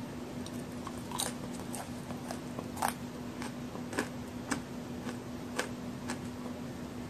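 Close-up chewing of a homemade chocolate and raisin cookie, with sharp, irregular crunches about once a second as the crisp cookie breaks between the teeth; the loudest crunch comes near three seconds in.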